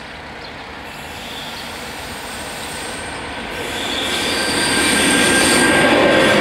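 An electric locomotive hauling M4 passenger coaches approaches and reaches the level crossing, its running noise growing louder and rising sharply from about four seconds in. Steady high-pitched wheel squeal rings over the rumble of wheels on rails.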